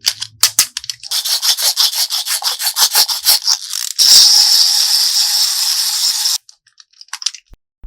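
Quick, even rubbing or scraping strokes, about five a second, then a steady hiss that cuts off suddenly, followed by a few light clicks.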